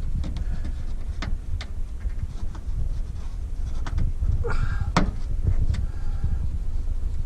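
Plastic trim clips being pressed into the trunk lid panel: a few sharp clicks and a short plastic squeak about five seconds in, over a steady low rumble.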